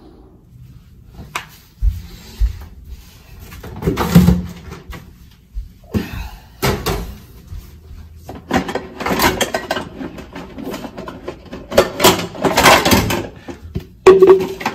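Plastic supplement tubs being handled, with knocks, clicks and rattling that come and go, busiest in the second half.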